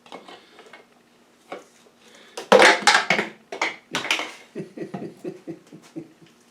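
Clattering and knocking of a funnel and oil bottle being handled at a small engine's oil fill tube: scattered knocks with the loudest about halfway through, then a quick run of small taps near the end.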